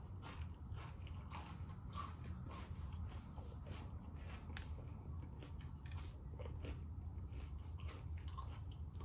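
Close-mic chewing and biting of crunchy KFC fried chicken, the breaded crust crackling in short, irregular crunches. A steady low hum lies underneath.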